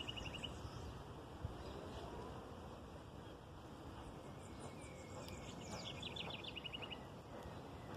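Birds singing: one bird gives a quick run of repeated short notes right at the start and again about six seconds in, with fainter higher chirps from other birds, over a steady low rumble.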